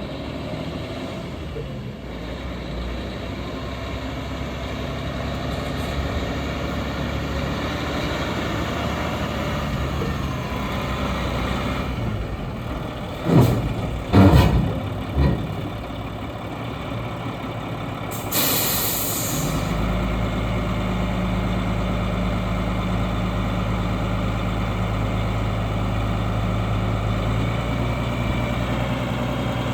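Diesel engine of a 2006 Sterling tandem-axle dump truck running, with three loud knocks about halfway through. About two-thirds in, a sharp air hiss of about a second, typical of an air brake release, after which the engine settles into a steady, even idle.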